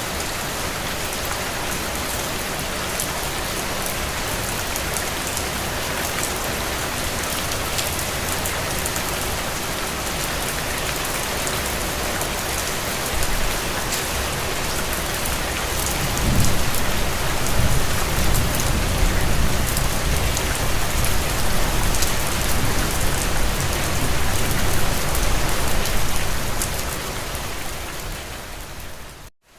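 Steady rain, with individual drops ticking on a window. About halfway through a low rumble swells up and holds, fading near the end, and the sound cuts out abruptly for a moment at the very end.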